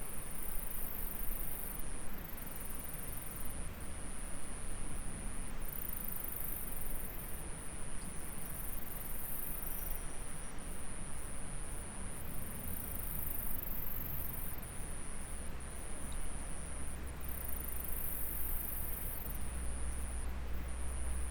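Insects trilling at a very high pitch, one steady with brief breaks and another coming and going in spells of a second or two, over the even rushing hiss of a flowing stream. A low rumble swells near the end.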